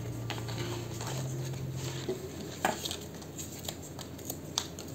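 Paper craft materials being handled at a table: soft rustling with a few light clicks and taps. A low steady hum in the first two seconds steps up in pitch once, about a second in.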